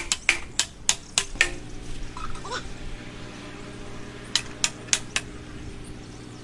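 Sharp knocks and clinks of hard objects being handled: a quick run of about seven in the first second and a half, then four more about four seconds in. A faint steady hum sits underneath from about a second and a half in.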